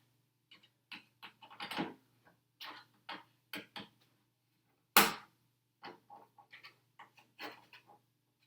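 Scattered small clicks and taps of plastic RC truck parts being handled during assembly, with one sharper knock about five seconds in.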